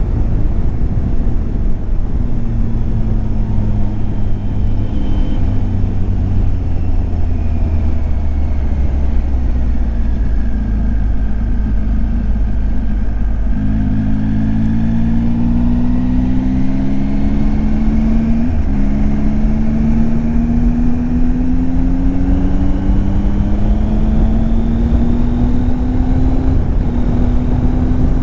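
Triumph Tiger 800 XCX's three-cylinder engine heard from the rider's seat over wind rush. Its pitch holds and drifts slowly down for the first half, jumps up about halfway through and climbs under acceleration, with a gear change breaking the climb about two-thirds in and another step near the end.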